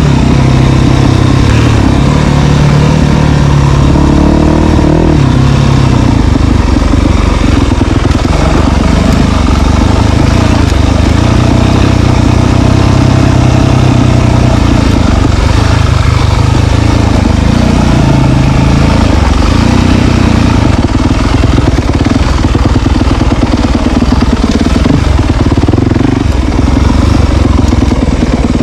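Dirt bike engine running loud and close while being ridden, its pitch rising and falling as the rider works the throttle and gears.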